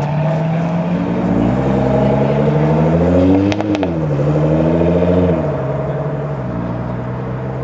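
Nissan GT-R's twin-turbo V6 accelerating hard: the engine note climbs, drops sharply with two short cracks at an upshift about halfway through, climbs again through the next gear, then eases off to a lower, steady drone near the end.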